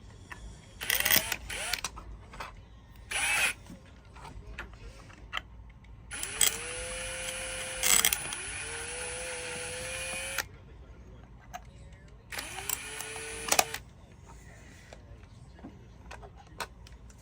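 Power drill run in several short bursts, each spinning up to speed, then one longer run of about four seconds whose pitch dips briefly under load.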